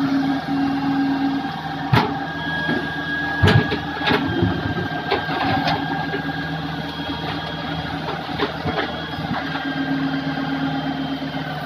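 Hitachi hydraulic excavator's diesel engine running steadily, with a series of sharp metallic knocks and clanks from the machine as it works, the loudest about three and a half seconds in.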